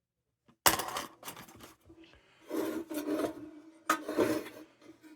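A sharp metallic clink, then two spells of scraping and rubbing on the tin of a Dietz Hy-Lo lantern as it is handled and worked on, with the thin tin ringing faintly under the scrapes.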